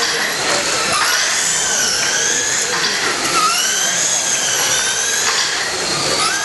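Several radio-controlled short course trucks' motors whining together, the high pitch sweeping up and down over and over as the trucks accelerate and slow around the track.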